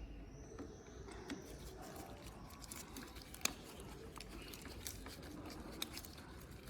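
Faint scattered clicks and scrapes of small metal parts being handled as a screw is threaded in by hand, with one sharper click about three and a half seconds in.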